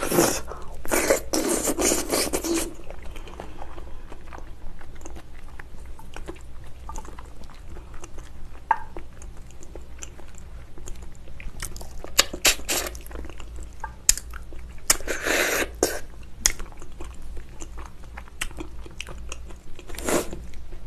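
Close-miked chewing and biting of spicy braised ox foot, with many small mouth clicks throughout. Louder bursts of mouth noise come right at the start and again about fifteen seconds in.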